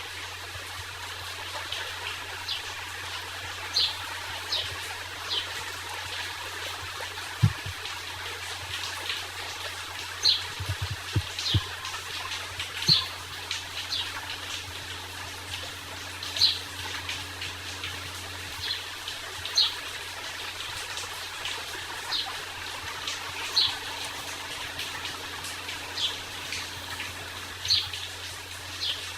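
Steady rain falling, with birds giving short, high chirps every second or two over a low, steady hum. A low thud comes about a quarter of the way in, and a few more follow soon after.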